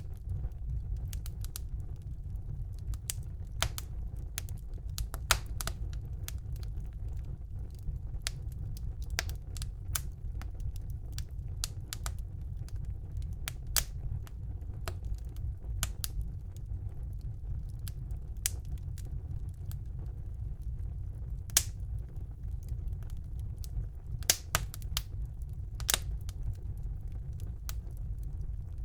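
Wood fire burning in a fireplace: irregular crackles and pops, a few of them louder, over a steady low rumble of the flames.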